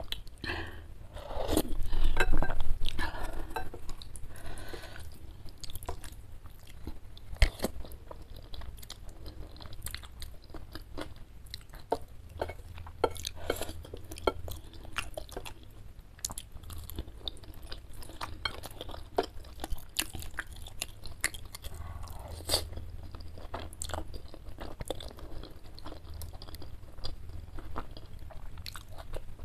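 Close-miked eating of spicy chicken noodles with chicken meatballs: wet chewing and biting with many small sharp mouth clicks and some crunching, loudest for a couple of seconds near the start.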